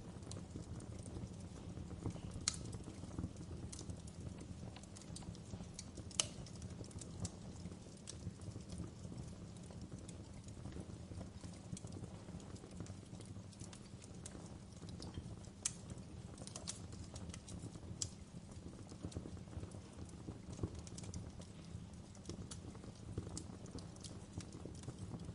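Wood fire crackling in a fireplace: a steady low rumble of burning with irregular sharp pops and snaps, a few louder pops standing out about 2.5, 6 and 16 seconds in.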